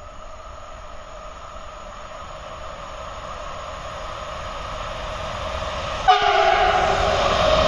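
Siemens Vectron class 193 electric locomotive approaching, a steady tonal hum growing louder; about six seconds in, its horn sounds loud and sudden with several tones together.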